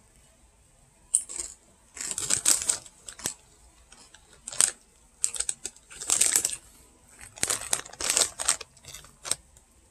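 Crunching of kettle-style potato chips being chewed, in irregular clusters of crisp crackles with short pauses between.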